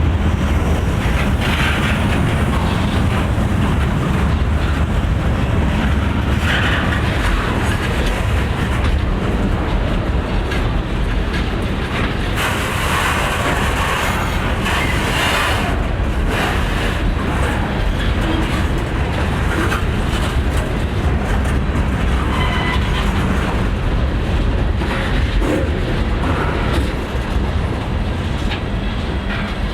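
Freight train rolling past, with a steady rumble of wheels on the rails.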